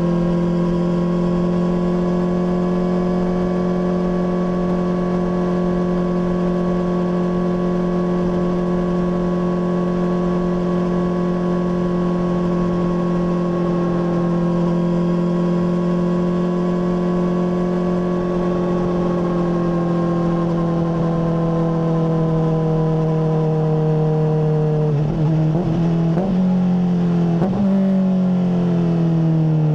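Honda CBR600RR inline-four running through a MIVV full exhaust at steady revs, then easing off so the pitch falls. Near the end the revs jump up twice in quick steps and drop away again, like downshifts while slowing.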